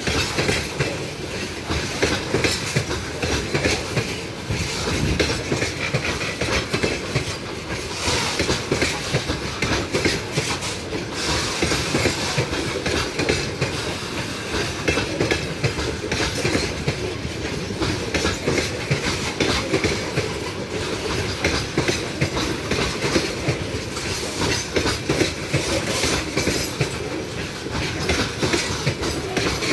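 A train rolling past at steady speed, its wagons' wheels clattering continuously over the rails.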